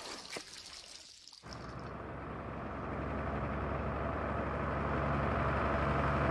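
An old truck's engine running, coming in about a second and a half in and growing steadily louder.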